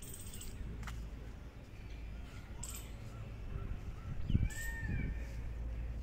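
Birds chirping and calling in trees over a low steady rumble, with a couple of soft low bumps near the end.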